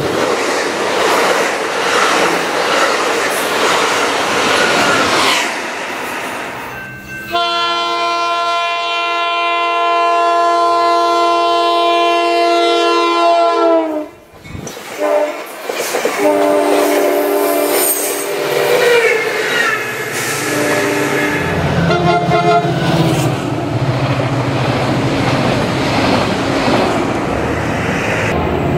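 Diesel passenger trains passing at speed, the cars and wheels rushing by. In the middle a loud multi-note train horn sounds for about six seconds, its chord dropping in pitch at the end as it passes. Then another train rushes by with shorter horn notes.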